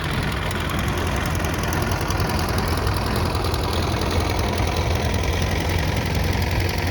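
Vintage tractor engine running steadily with a low, even beat.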